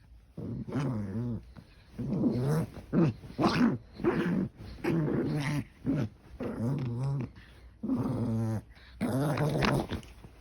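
A senior dog growling in a string of short, low grumbling growls, about one a second, as a warning not to be bothered.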